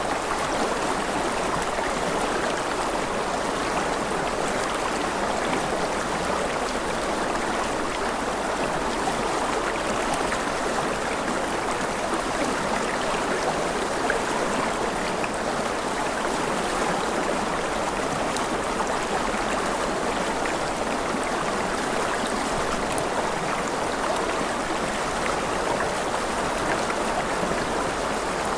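A stream of flowing water rushing steadily and evenly, with no breaks or changes.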